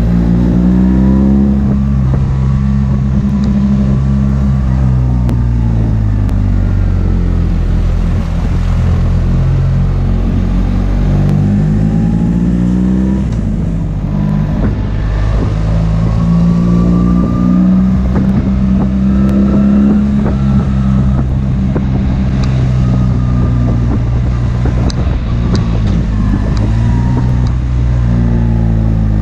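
BMW R 1300 GS boxer-twin engine under way, its note climbing and dropping several times as the rider accelerates and eases off.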